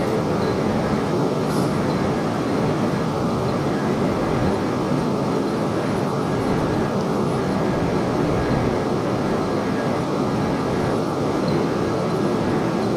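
Steady rumbling noise of a Tohoku Shinkansen train at the platform, even and unchanging throughout.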